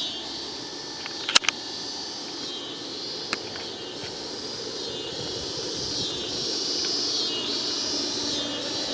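Outdoor insect chorus, a high pulsing buzz, over a low steady rumble that swells slightly after about six seconds. A sharp double click comes about a second and a half in, and a fainter one a couple of seconds later.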